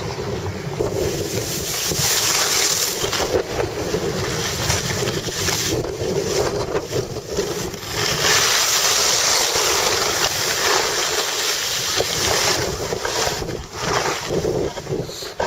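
Wind rushing over the microphone while moving down a ski slope, a loud rough hiss that surges and eases.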